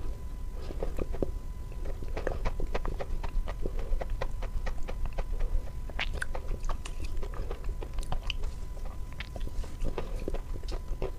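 Close-miked chewing and biting of sawn chalk with paste: many sharp, irregular crunchy clicks and crackles in the mouth, over a faint steady high tone.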